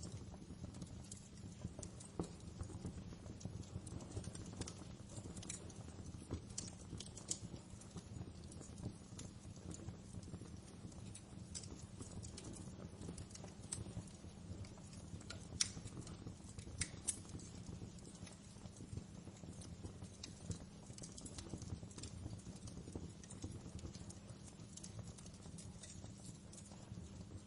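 Wood fire crackling in a fireplace: irregular sharp pops and snaps over a steady low rumble of the burning fire, with a couple of louder pops about halfway through.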